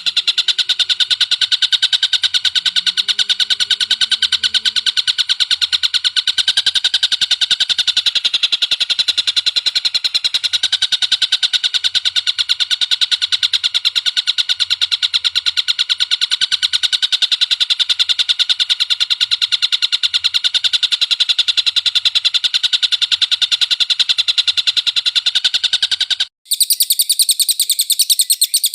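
A songbird's recorded song: a very fast, unbroken run of repeated notes, a rapid trilling chatter. About 26 seconds in it cuts off briefly and a higher, thinner bird call takes over.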